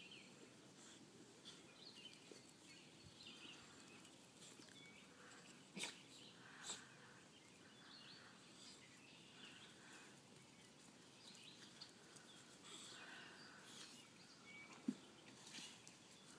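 Faint outdoor birdsong: scattered short chirps from small birds, with a few brief sharp clicks, the loudest about six seconds in and again near fifteen seconds.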